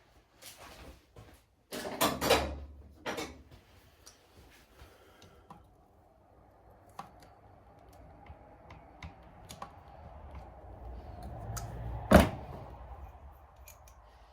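Clinks and knocks of small metal engine parts being worked loose and handled during a top-end teardown of a Suzuki LTR 450 engine. There is a cluster of knocks about two seconds in and one sharp clink near the end, over a faint hum.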